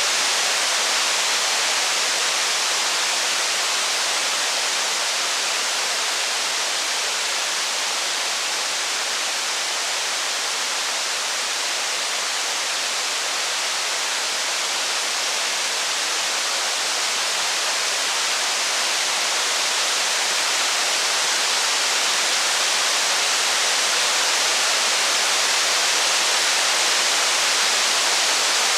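Heavy rain falling steadily: an even, unbroken rushing hiss with no thunder or crackle standing out.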